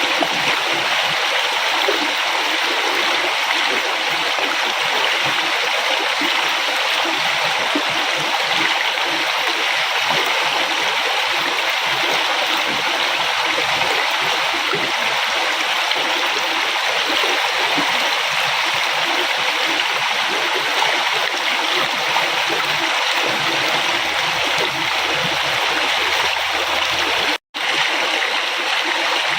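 A flowing river, its water rushing and burbling steadily over the whole stretch. The sound cuts out completely for an instant near the end, then resumes.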